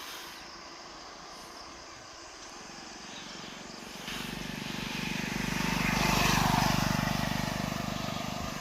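An engine passing by: its sound begins about four seconds in, swells to a peak around six and a half seconds and fades again, with a low pulsing hum and a higher tone that drops in pitch as it goes past. Before it, only faint outdoor ambience.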